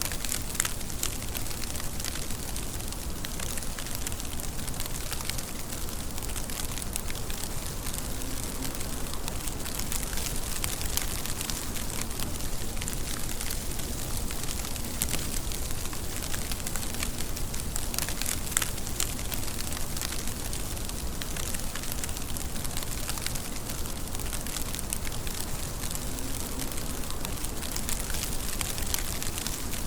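Steady rain falling, with a dense patter of individual drops hitting a surface over an even hiss and a low rumble.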